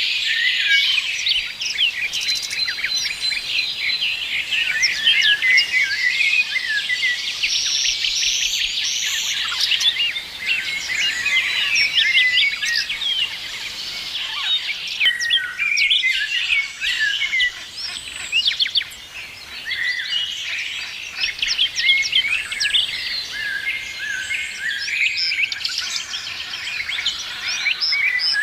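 A chorus of many birds chirping at once: dense, overlapping short high chirps and twitters without a break.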